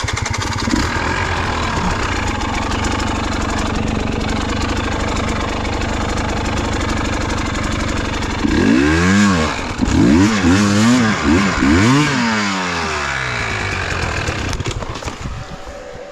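KTM enduro motorcycle engine coming on suddenly and running steadily. From about halfway through it is revved up and down several times, then settles and fades near the end.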